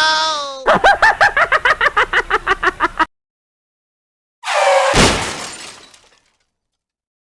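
Cartoon sound effects: a rapid run of short pitched chirps for about two seconds. After a pause comes a crash with glass shattering, about five seconds in, which dies away over a second.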